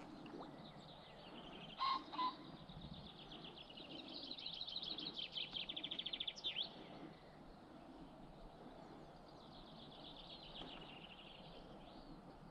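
Songbirds singing over a low outdoor background hiss: a long, fast trill of rapid high notes in the middle ends in a quick sweep, and a fainter trill follows near the end. Two short sharp sounds, the loudest in the stretch, come about two seconds in.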